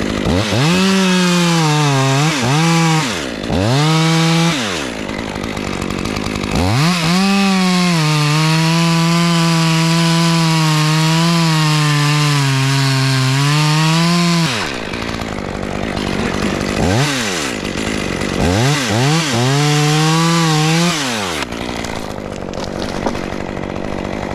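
Two-stroke chainsaw revving in short blips, then held at full throttle for about seven seconds as it cuts through a dead oak limb, the pitch wavering slightly under load. It revs twice more and then drops back to a steady idle near the end.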